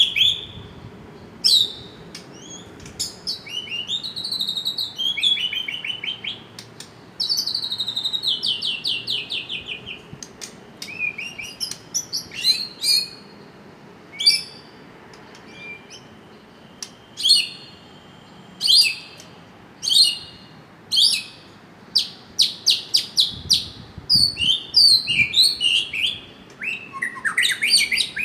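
A bird chirping and singing in short, varied phrases with pauses between them, including fast runs of repeated notes, over a faint steady background hum.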